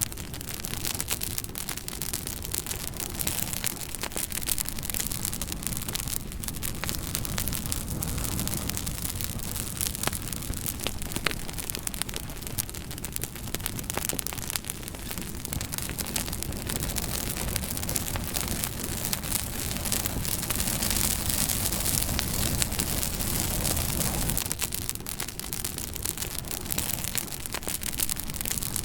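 Wood fire crackling, with many sharp pops and snaps over a steady low rumble.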